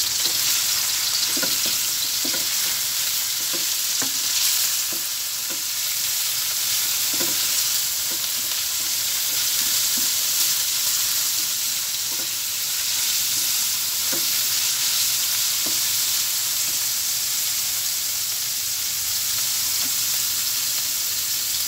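Ground meat sizzling steadily in hot oil with garlic, onion and tomato, sautéing. A spatula scrapes and taps against the pan now and then as it is stirred.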